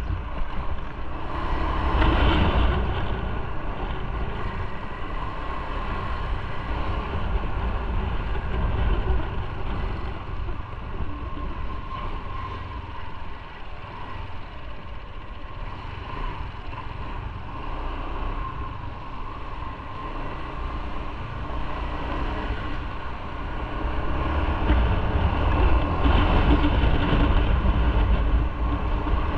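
Motorcycle running along the road, engine and road noise, getting louder near the end.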